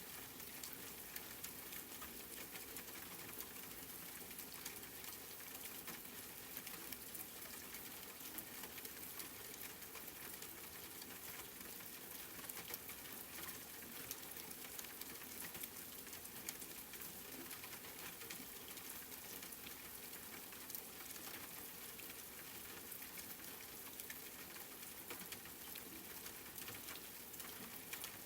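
Steady rain falling, with a dense patter of individual drops ticking on a hard surface.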